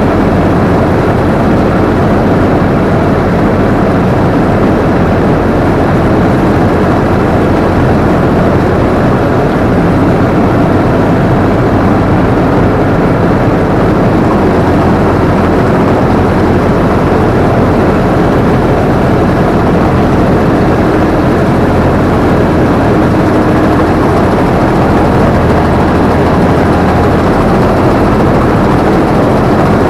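Combine harvester running steadily, its engine and machinery loud and close from the operator's seat.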